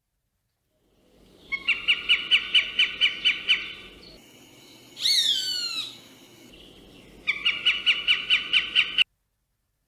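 Bird calling: two bursts of rapid repeated notes, about five a second, with a single falling call between them. It cuts off suddenly near the end.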